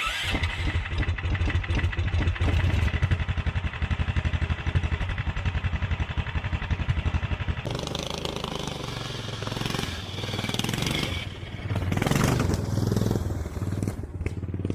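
Predator 420cc single-cylinder four-stroke engine of a go-kart running with an even firing beat, then, after a sudden change about eight seconds in, rising and falling in swells as it is revved or driven.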